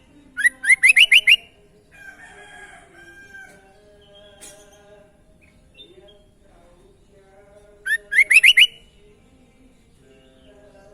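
Sooty-headed bulbul (kutilang) calling: two loud bursts of five or six quick rising notes, about a second in and again about seven seconds later.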